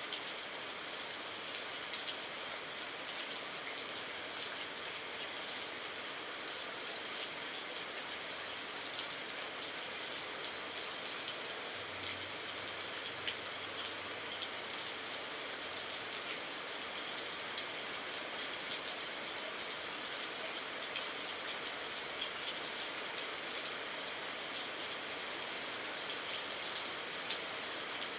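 Steady rain falling: an even hiss of water with many small, sharp drop ticks scattered through it.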